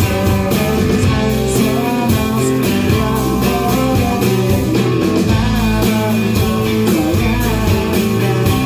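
Live rock band playing: guitars with a sliding melodic line over a steady bass line and drums, in a stretch without sung words.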